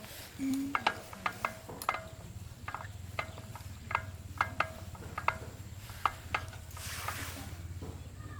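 Irregular light metallic clinks and taps, one or two a second, each ringing briefly, over a low steady hum.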